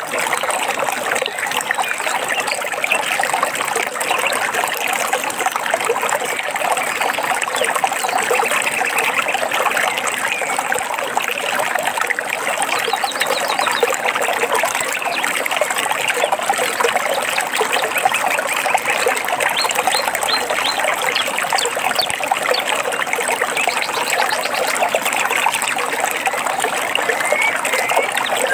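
Steady trickling and splashing of a forest stream, with birds chirping and trilling briefly over it now and then.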